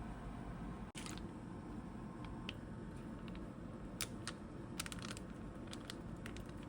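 Scattered light clicks and taps, a few at a time, over a steady low background hum, with a brief dropout about a second in.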